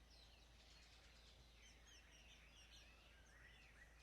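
Faint birdsong ambience: several small birds chirping and twittering in quick short calls over a low, steady background hum.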